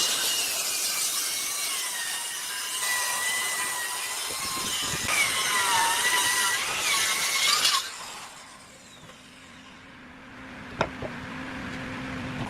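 A power tool's motor whines as it cuts wood, its pitch sagging and wavering under load, then stops about eight seconds in. Near the end there is a single sharp click, and a low hum builds.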